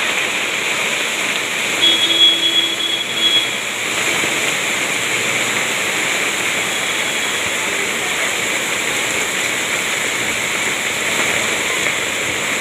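Steady heavy rain falling, a continuous hiss of downpour. About two seconds in, a brief steady tone sounds over it for a second or so.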